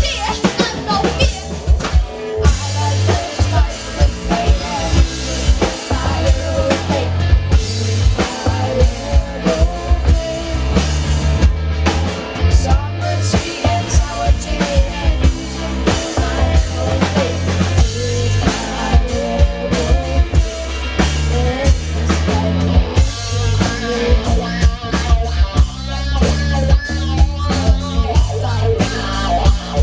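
Rock band playing an instrumental passage: a drum kit keeps a steady beat under a prominent, moving bass line.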